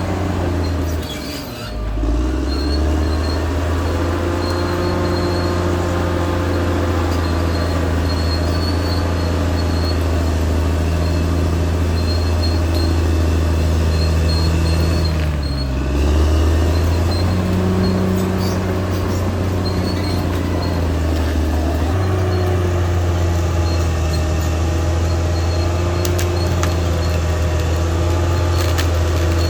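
Caterpillar D6R XL bulldozer's diesel engine running steadily under working load. The engine note dips briefly and recovers twice, about a second and a half in and again about fifteen seconds in.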